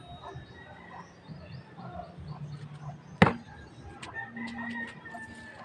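A single sharp knock about three seconds in, over faint background bird calls.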